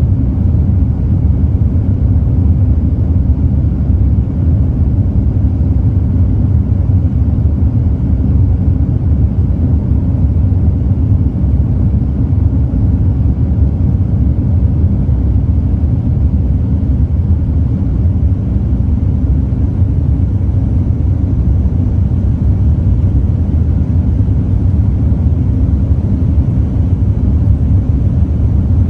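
Steady low rumble of a Boeing 787-9 airliner's engines and airflow, heard inside the cabin.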